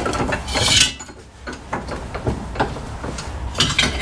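A series of metal knocks and clanks from tools and a mower deck spindle being handled in a bench vise.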